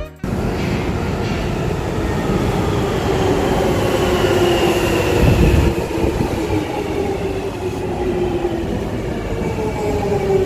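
Electric train running, a steady rumble of wheels on track under a motor whine that falls slowly in pitch.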